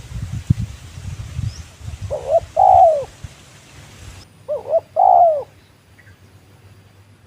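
Spotted dove (tekukur) cooing: two calls about two seconds apart, each a couple of short notes then a longer note that falls at its end. A low rumbling fills the first two seconds.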